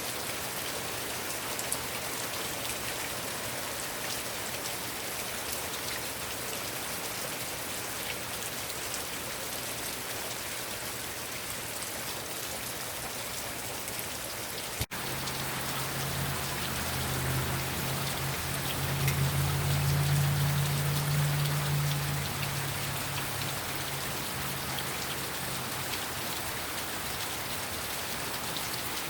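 Heavy rain falling steadily. About halfway through there is a single sharp click. After it a low steady hum comes in, is loudest about two-thirds of the way through, and fades near the end.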